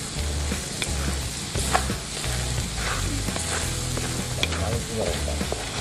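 Chopped garlic, chilli and onion sizzling in oil in a wok, stirred with a wooden spatula, with a few short scrapes of the spatula against the pan; the garlic is being softened rather than toasted.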